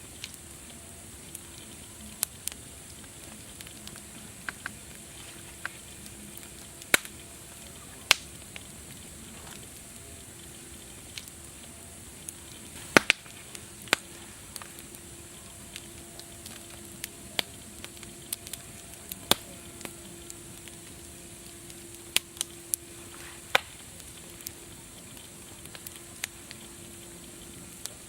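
Wood fire crackling: irregular sharp pops and snaps, some much louder than others, over a steady hiss.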